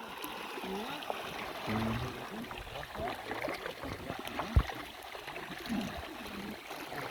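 Running, trickling water with faint voices, and a single low thump about four and a half seconds in.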